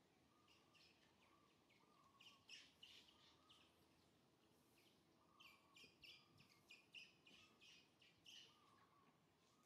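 Near silence with faint bird chirps in short clusters, about two and a half seconds in and again from about five to eight and a half seconds.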